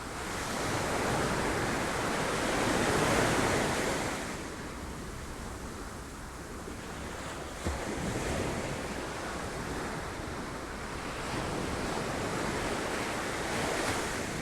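Sea waves breaking against rocks, the surf swelling and easing in three surges, with a brief sharp knock about halfway through.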